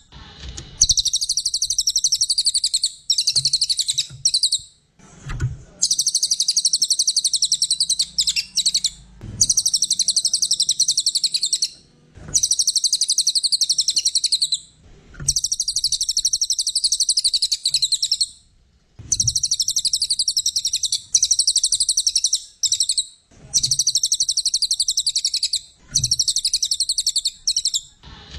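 Cililin (brown cililin), a small songbird, singing loudly and vigorously: repeated bursts of rapid, high-pitched chattering trills, each about two to three seconds long, with short pauses between them.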